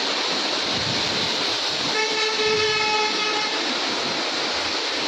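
Steady heavy rain. About two seconds in, a horn sounds once, one held tone for about a second and a half.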